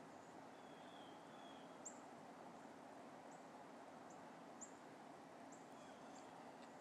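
Faint, very short, high-pitched bird chirps, about half a dozen scattered through, with a soft brief warble about a second in, over a steady quiet outdoor hiss.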